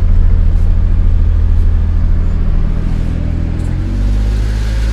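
1995 Mitsubishi Minicab's 660cc three-cylinder 3G83 engine running while the truck stands still. About three and a half seconds in, its speed drops and it settles into a lower, steady idle.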